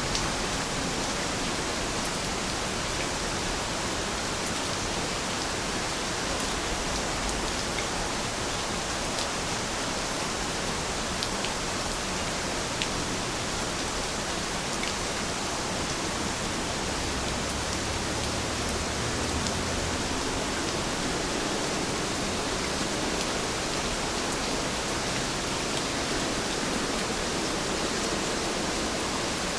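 Heavy rain falling steadily, an even hiss with a few faint sharp drop ticks.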